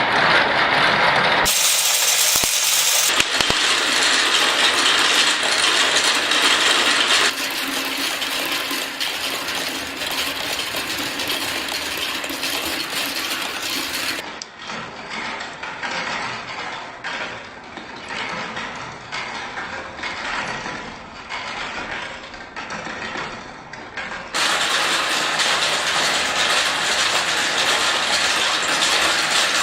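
Plastic marbles rolling and clattering down a plastic marble-run track in a dense, rapid rattle of clicks. The sound changes abruptly several times and is quieter through the middle stretch.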